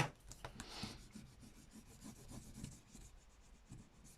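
A rub-on transfer being rubbed onto a paper journal page, a tool scratching over the paper in short, uneven strokes, with a sharp tap right at the start.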